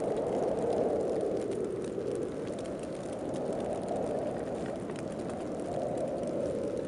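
Snowstorm wind blowing steadily, a low rushing noise that swells and eases every couple of seconds, with faint scattered ticks over it.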